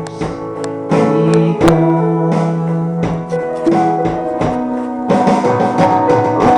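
Live band playing a worship song: a voice sings the last words of a verse line over guitar strumming and piano with light drum hits, then the band plays on without singing.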